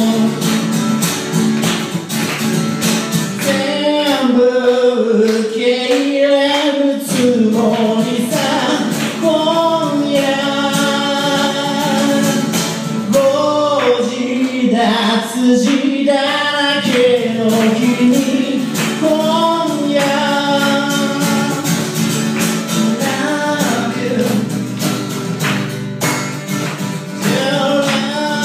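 A singer singing live to his own strummed acoustic guitar, with long held, bending notes over steady strumming throughout.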